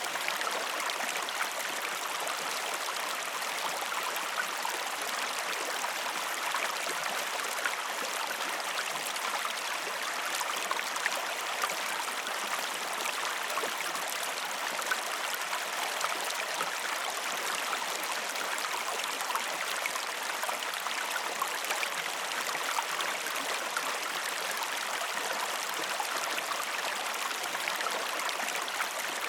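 River water flowing in a steady, even rush, with small splashes and trickles through it.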